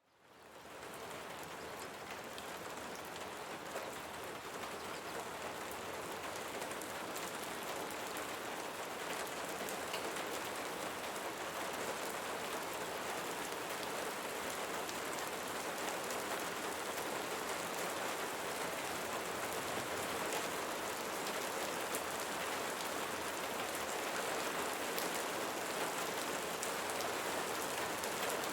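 Steady rainfall, a dense even patter of drops, fading in from silence in the first second and then holding steady.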